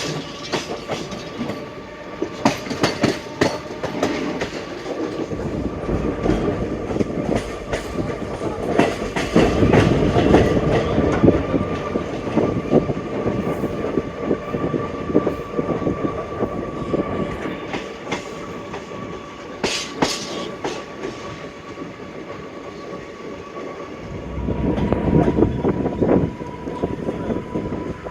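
Indian Railways passenger coaches running at speed, the wheels clicking over the rail joints in a continuous clickety-clack over a steady rumble with a faint steady whine. The rumble swells louder around ten seconds in and again near the end.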